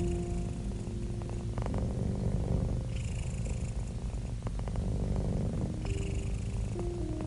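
Domestic cat purring close up: a steady, pulsing low rumble, with a hissier patch about every three seconds.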